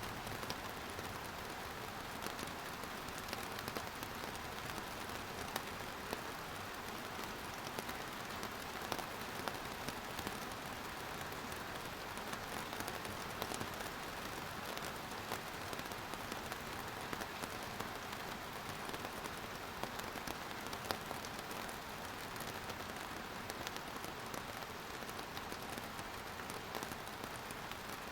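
Steady rain falling, an even hiss with many small drops pattering on a surface throughout.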